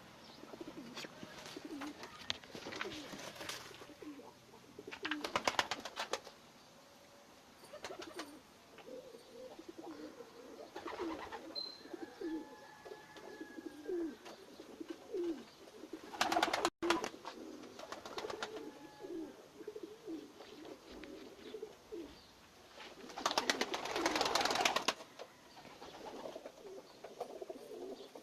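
Domestic fancy pigeons cooing continuously in low, short calls, with a few brief bursts of rapid wing-flapping clatter.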